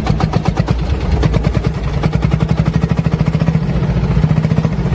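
15-horsepower stationary diesel engine fitted in a homemade chopper motorcycle, running with an even, rapid diesel clatter.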